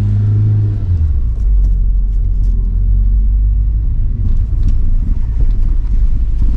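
Toyota AE111 Trueno's four-cylinder engine heard from inside the cabin: a brief rise and fall in pitch in the first second, then a steady low drone as the car runs on.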